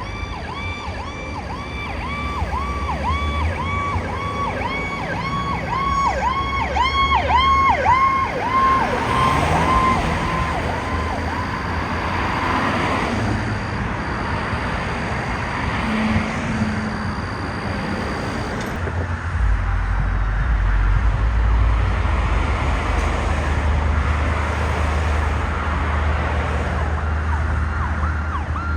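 Emergency vehicle sirens yelping in fast repeated sweeps, about two a second, as responding units pass. A second siren overlaps briefly. The siren fades out about ten seconds in, leaving road noise and a heavy engine rumble that grows louder. Another siren starts up near the end.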